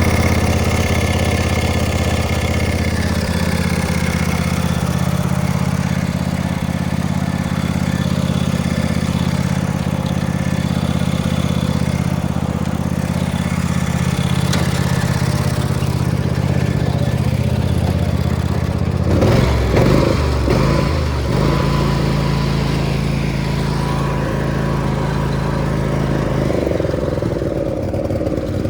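Tractor engine running steadily under throttle. About two-thirds of the way through its note changes abruptly with a brief rough, uneven patch, then it runs on steadily with a changed tone.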